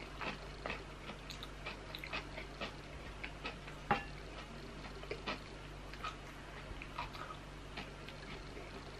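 Close-miked chewing and wet mouth smacks of soft boiled potato and fried mushrooms, with light clicks of wooden chopsticks against the dishes; a sharper click about four seconds in.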